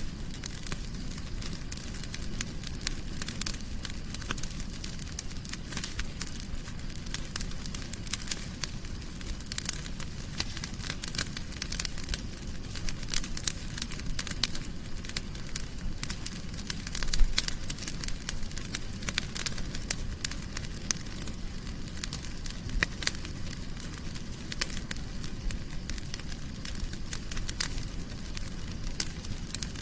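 Wood fire in a fireplace crackling: a steady stream of small, sharp crackles over a low rumble, with one louder pop about seventeen seconds in.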